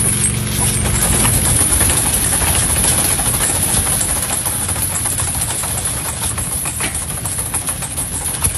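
Machinery running with a steady high hiss and irregular clatter, with a low engine hum that fades about a second in.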